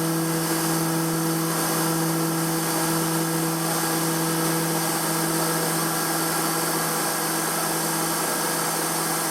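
Emco F1 CNC milling machine running steadily with its spindle at 1500 RPM and a 12 mm carbide end mill roughing cast aluminium: a constant hum under an even high hiss from the mist coolant blowing on the cutter.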